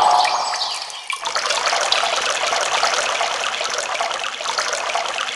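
Running water trickling steadily, with small bubbling notes, in a nature recording; a new stretch of water sound sets in about a second in.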